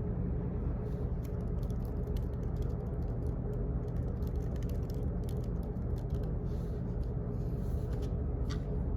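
Office background noise: a steady low rumble and hum with a faint steady tone, and a run of quick, irregular light clicks and taps through the middle.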